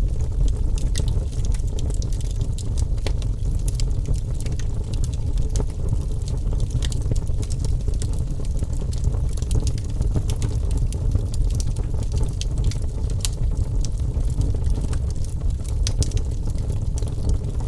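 Wood fire crackling: frequent, irregular sharp pops and snaps over a steady low rush of burning.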